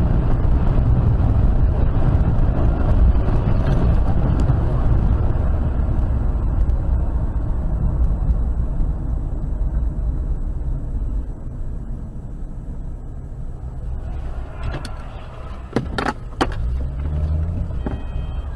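Car driving, heard from inside the cabin: a steady road and engine rumble that eases after about eleven seconds, with a few sharp clicks near the end.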